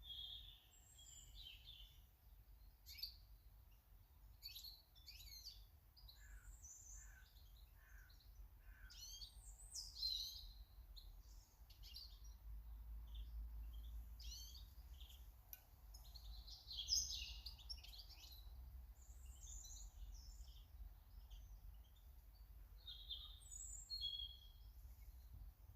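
Small garden birds chirping and twittering in quick, overlapping phrases, heard faintly over a low background rumble.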